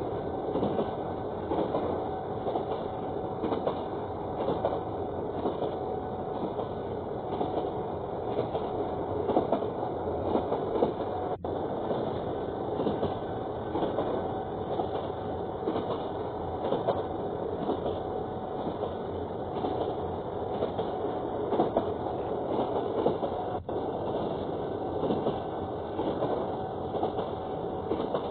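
Train running on railway track: a steady rumble with irregular rattling and clicking from wheels on rails, and a faint steady tone above it.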